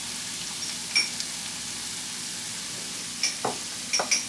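Garlic sizzling in a hot frying pan, a steady hiss, with sharp clinks of a utensil against the pan about a second in and several more near the end as it is stirred.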